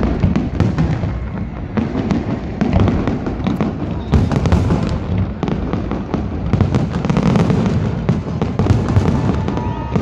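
Fireworks finale: aerial shells bursting in a dense, continuous barrage of overlapping bangs with no pause.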